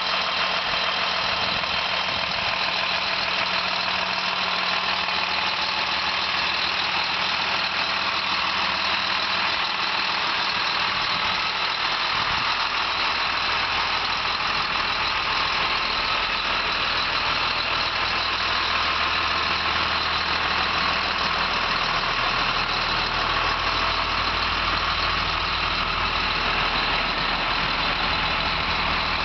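2007 Blue Bird Vision school bus's diesel engine idling steadily, its low rumble growing a little stronger about two-thirds of the way through.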